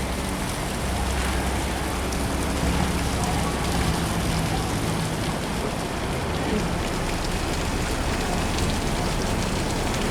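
Steady rushing noise of water pouring through the open sluice gate, with the low drone of boat engines, strongest in the first half.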